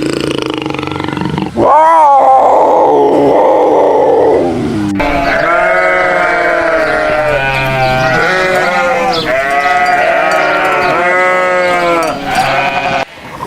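Bleating livestock: a loud call falling in pitch about two seconds in, then a run of quavering bleats one after another until near the end.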